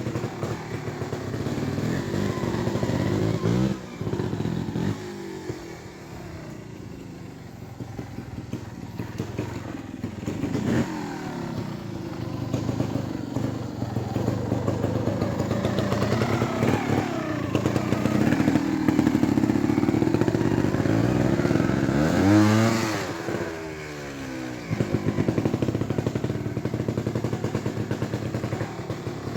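Beta Evo trials motorcycle engine running at low revs and being blipped, the revs rising and falling several times, with the sharpest rev about three-quarters of the way through.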